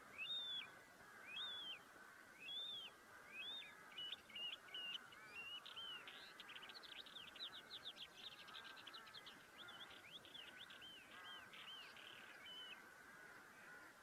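A bird calling quietly: a series of arched chirping notes, about one a second at first, speeding up into a fast run of notes in the middle, then slowing and stopping shortly before the end.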